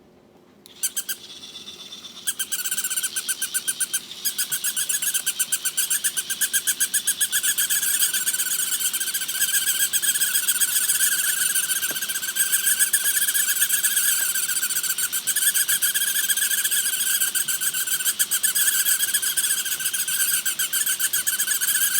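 Walking toy dog running: a rapid, high chirping pulse that starts about a second in, grows louder around two seconds in and then goes on steadily.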